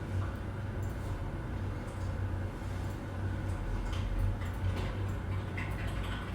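Office ambience: a steady low hum with scattered light clicks and knocks throughout.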